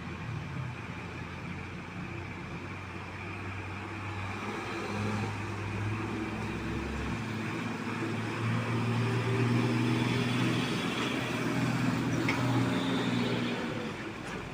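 Motor vehicle engine running, its hum shifting in pitch and growing louder towards about ten seconds in before easing off near the end.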